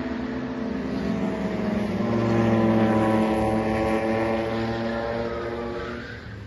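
Racing car engine running under load. Its pitch climbs slowly, it is loudest a few seconds in, then it eases off and drops near the end.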